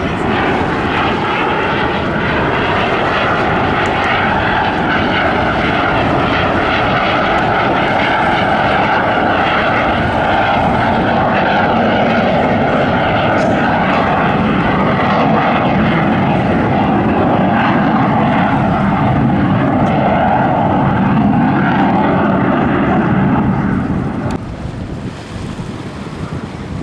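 Aermacchi MB-339 PAN jet trainers flying past in display, a loud steady jet rush that drops away sharply near the end.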